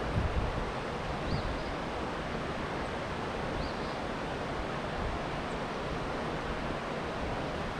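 Steady rush of flowing stream water, an even noise that doesn't let up.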